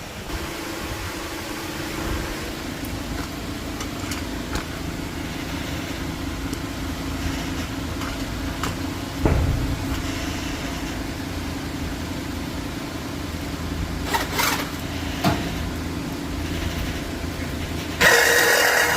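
A motor runs steadily with an even hum, with a few sharp metallic knocks. A loud harsh grinding noise starts suddenly near the end.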